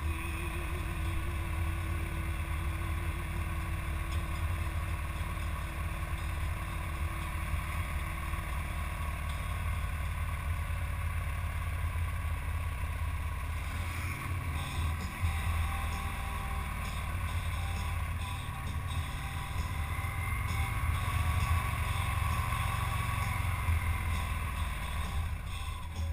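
Motorcycle engine running under way, a steady low rumble. Its note changes about halfway through and grows louder near the end.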